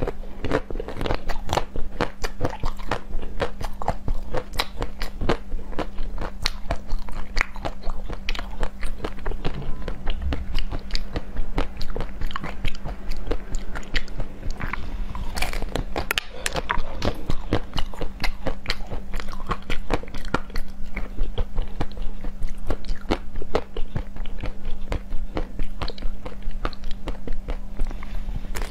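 Close-miked biting and chewing of a purple, sweet-potato-shaped treat with a creamy filling: a dense, continuous run of small crunches and crackles, over a faint steady hum.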